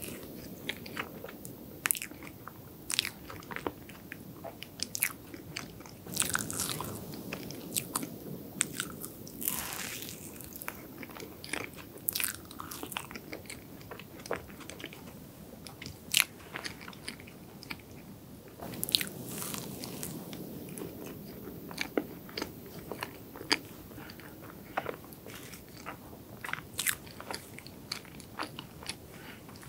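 Close-miked eating of a cream-topped chocolate dessert: bites and mouth-closed chewing, with irregular sharp clicks and wet mouth smacks over a soft, mushy chewing sound.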